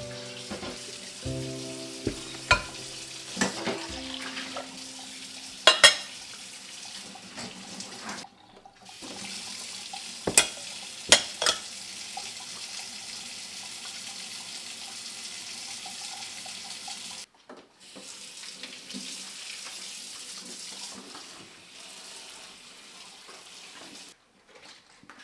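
Water running from a kitchen tap into the sink during washing up, a steady hiss with a few sharp clinks of dishes. Soft background music plays in the first few seconds.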